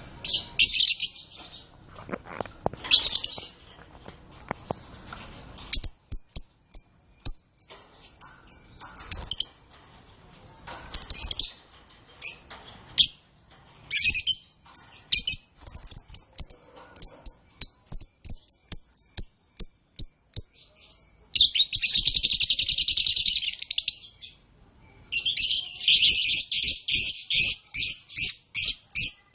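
Canaries chirping in short repeated high calls, breaking into two long rapid trills in the last third.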